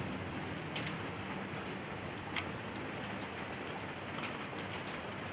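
Eating sounds of a man chewing food with his mouth closed and picking at rice with his fingers: a few soft mouth clicks, the loudest about halfway through, over a steady background hiss.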